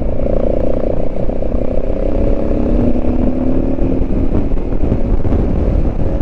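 Motorcycle engine running at a steady cruise under heavy low wind and road rumble, its note easing slowly lower.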